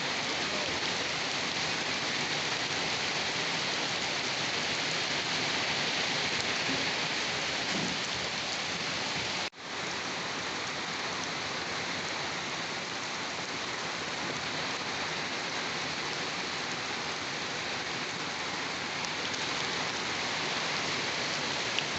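Steady heavy rain falling on a surface, an even hiss of drops. The sound cuts out for an instant about nine and a half seconds in, then returns.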